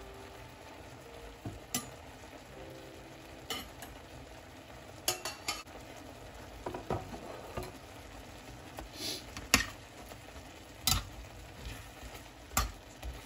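Sliced porcini mushrooms and tomatoes sizzling in butter in a stainless steel frying pan, stirred with a metal spatula and fork that click and scrape against the pan now and then.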